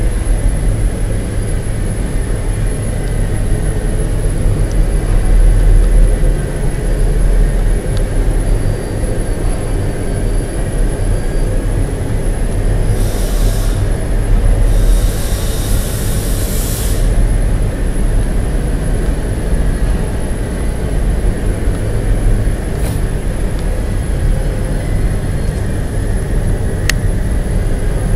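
Loud, steady low rumble of heavy industrial machinery, with a thin constant high whine. Two short bursts of high hissing, like air or steam being vented, come about halfway through.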